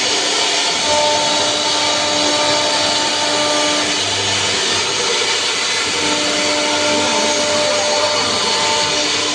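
A CNC router spindle runs steadily, cutting a wooden door panel: a constant machine whine with a few held tones over a loud, even hiss.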